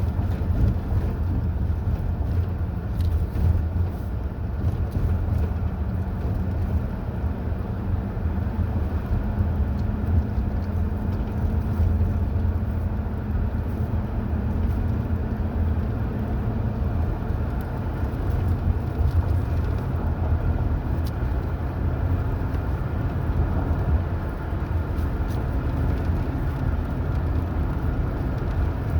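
A car being driven at a steady pace, giving a continuous low rumble of engine and tyre noise with no change in speed.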